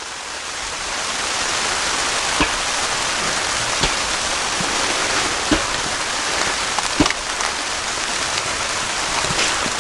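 Moose steaks sizzling in a frying pan: a steady hiss with a few sharp pops of spitting fat.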